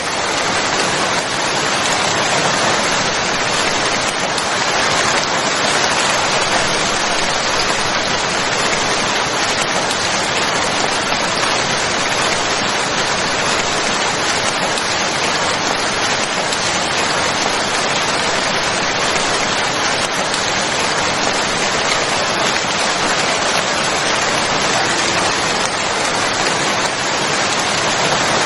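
Steady heavy rain falling on a surface, a dense unbroken hiss of drops without pauses or distinct impacts.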